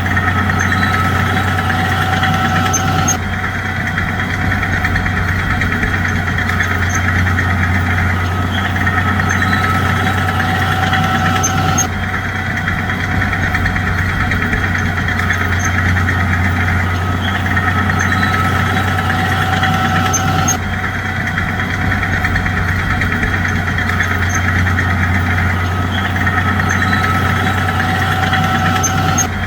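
Bulldozer's diesel engine running steadily, a constant low drone, with abrupt small shifts in tone about three seconds in, near the middle and about two-thirds through.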